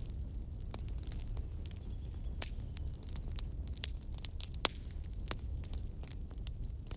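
Wood campfire burning: irregular sharp crackles and pops over a steady low rumble, with a faint high whistle from the burning wood about two seconds in.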